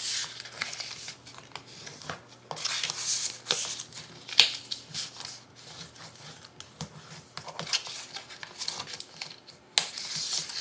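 Cardstock being scored with a scoring tool: repeated scraping strokes along the paper, with paper handling between them. Two sharp clicks or taps, the loudest about four seconds in and another near the end.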